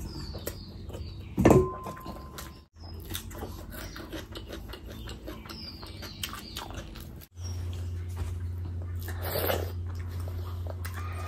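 Close-miked eating sounds from chewing mutton curry and bhatura by hand: wet chewing, lip-smacking and small slurps, with one louder wet mouth sound about a second and a half in.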